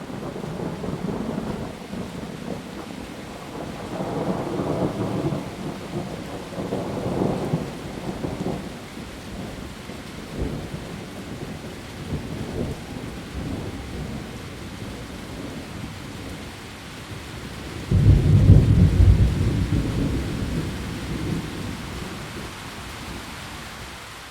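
Heavy rain falling steadily, with rolling thunder rumbling twice. The second is a sudden loud clap near the middle that rumbles away over several seconds.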